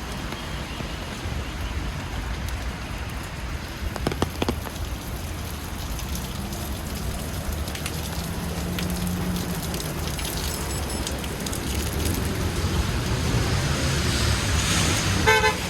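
Steady rain falling on a city street, with a low traffic rumble beneath. A couple of clicks come about four seconds in, and a short run of rapid ticks near the end.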